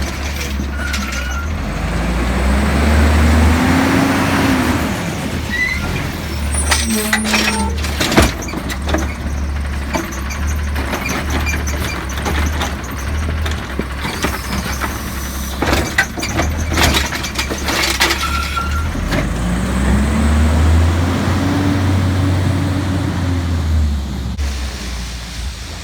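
Recycling garbage truck's diesel engine rising in pitch and settling back twice as it runs its hydraulics. Between the two rises come clusters of sharp knocks and bangs, typical of a cart being dumped into the hopper.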